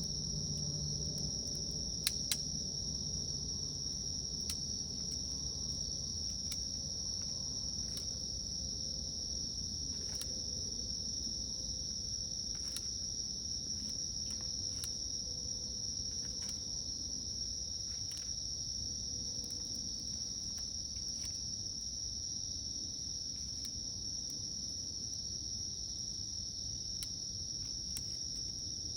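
Insects, most likely crickets, chirring in a steady, unbroken high-pitched drone, with faint scattered clicks.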